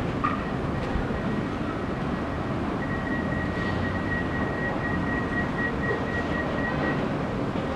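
Passenger train running: a steady rail noise, with a thin high steady tone from about three seconds in until about seven seconds in.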